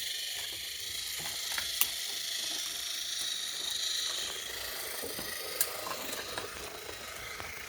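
Small battery motors of motorized Thomas & Friends toy engines whirring steadily as they run along wooden railway track, with a couple of sharp clicks.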